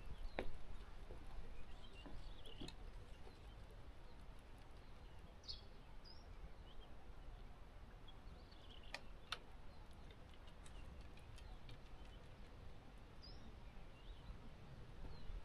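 Small birds chirping faintly now and then over a low steady rumble of wind, with a few sharp clicks.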